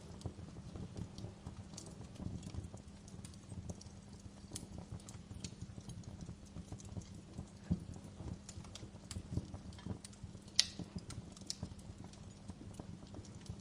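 Wood fire crackling in a fireplace: irregular snaps and pops over a low rumble and a faint steady hum, with one sharper pop about ten and a half seconds in.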